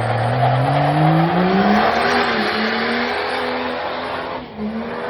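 Diesel pickup truck engine revving hard: the pitch climbs over about two seconds, then holds high and wavers under a loud rushing noise, dipping briefly near the end.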